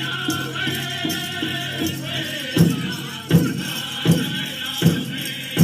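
Powwow drum group singing in high voices over a big drum. About halfway in the drumming turns to loud, evenly spaced strokes, five of them under a second apart.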